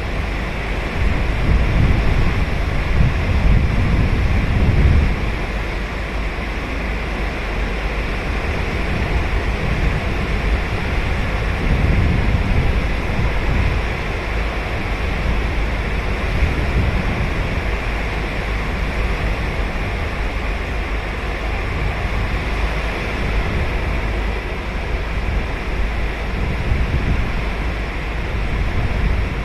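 Ocean surf breaking and washing up the beach in a continuous rushing wash, with a louder surge in the first few seconds and another around the middle.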